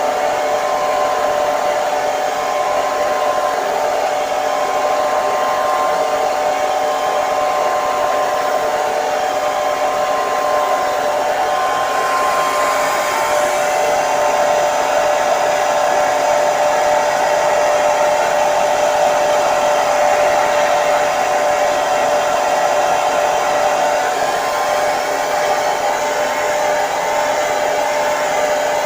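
Electric hair dryer running continuously, a steady whooshing rush of air with a constant motor whine.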